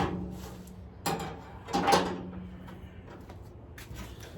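Cast-iron cooking grates of a Masterbuilt 560 gravity-fed charcoal grill being pulled out and flipped over to the sear side, with three sharp metal clanks: at the start, about a second in and about two seconds in.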